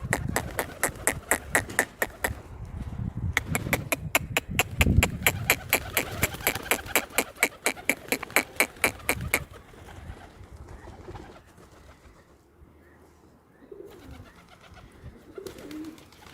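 Pigeons cooing, with a fast, even run of sharp clicks, about five a second, through the first nine seconds or so.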